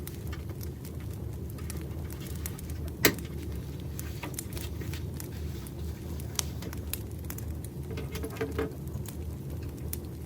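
Campfire crackling: a steady low rumble of flames with scattered small pops and snaps, and one sharper pop about three seconds in.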